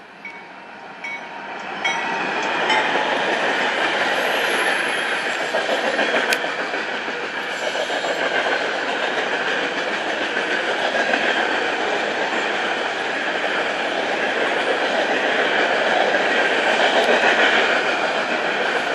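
BNSF freight train passing close: diesel locomotives arrive, then a long string of boxcars and covered hopper cars rolls by with a steady noise of wheels on the rails. The sound rises quickly over the first two seconds as the locomotives come up, then holds level and loud.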